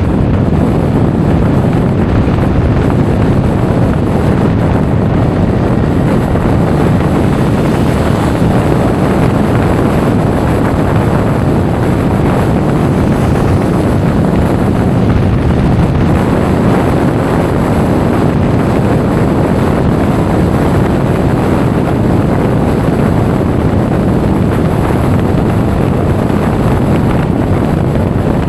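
Steady, loud wind noise buffeting an action camera's microphone while riding a Honda Forza 350 scooter, with the scooter's running and road noise underneath.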